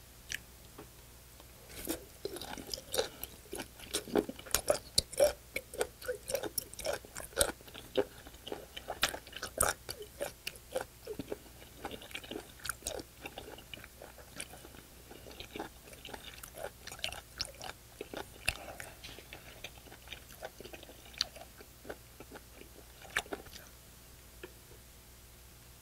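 Close-miked chewing of raw sea cucumber: a fast run of crisp crunching clicks that starts about two seconds in, is busiest in the first half and thins out toward the end.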